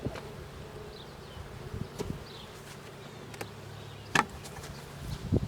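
Honeybees of a queenless colony buzzing steadily in the opened hive, with a few sharp knocks of hive equipment, the loudest about four seconds in and a few more near the end.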